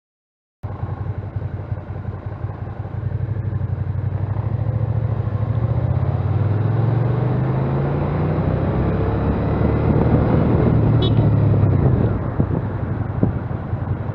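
Motorcycle engine running under way, with wind and road noise, starting abruptly after a brief silence. Its pitch rises as it accelerates through the middle, then eases off near the end.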